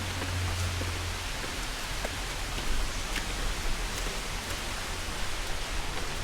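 Steady rushing of flowing water, a constant hiss with a few faint clicks over it.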